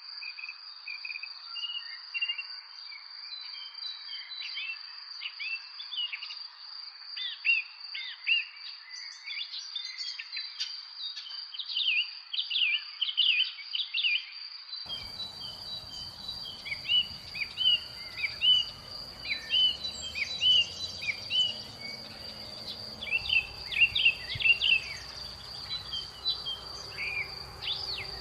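Small birds chirping in quick, short, repeated calls over a steady high-pitched insect drone. About halfway through, a low background rumble joins.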